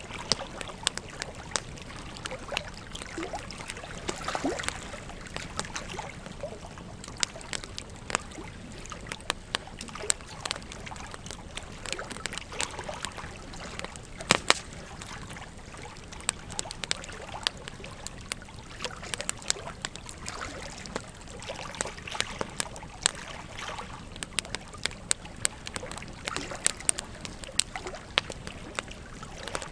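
Wood campfire crackling, with many irregular sharp pops and snaps, one louder pop about halfway through, over a steady rush of flowing river water.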